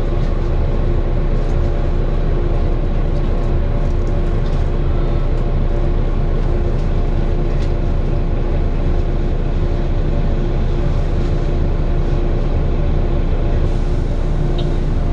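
Volvo B9TL double-decker bus heard from inside, its engine and drivetrain running steadily with a constant hum throughout.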